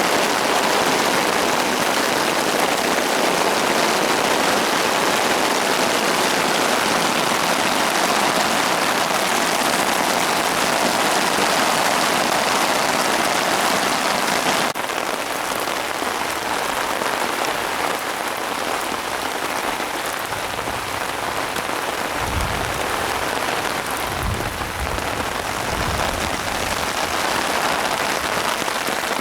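Steady rain falling, an even hiss of many drops. About halfway through it drops abruptly a little in level, and a few low rumbles come in near the end.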